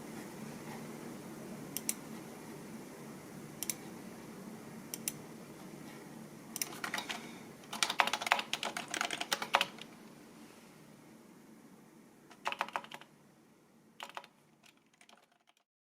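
Computer keyboard being typed on: a few single keystrokes a second or two apart, then quick runs of keys about halfway through, and a few last keystrokes near the end.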